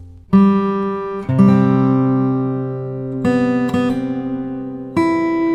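Background music: acoustic guitar chords, struck about five times and left to ring and fade between strokes.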